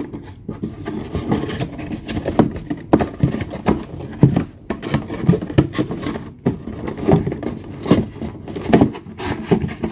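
Irregular knocks, clicks and rustles of plastic hair-dryer attachments and packaging being handled, about one or two knocks a second.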